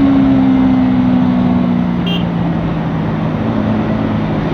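Bajaj Pulsar NS200's single-cylinder engine running steadily on the move, its pitch drifting slowly down as the throttle eases off, over steady wind rush.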